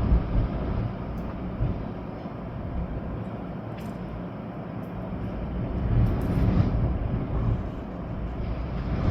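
Storm wind gusting through trees with rain, the wind rumbling on the microphone. The gusts swell near the start and again about six seconds in.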